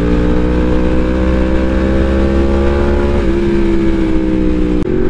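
2016 Yamaha YZF-R1's crossplane inline-four engine running under steady throttle, its pitch rising slowly, dipping slightly a little after three seconds, then holding, with a rush of wind noise underneath. There is a short click near the end.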